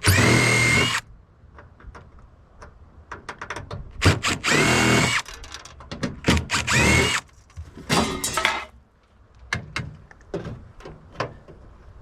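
Power drill running in short bursts of about a second, three main times, its motor whine climbing and then holding steady each time. Clicks and rattles of metal being handled fill the gaps.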